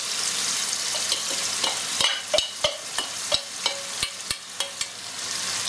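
Cubed spiced potatoes sizzling in hot oil in a frying pan. From about two seconds in, a spoon scrapes and knocks against a metal bowl in a run of sharp clicks, about three a second, as the last of the mix is tipped out.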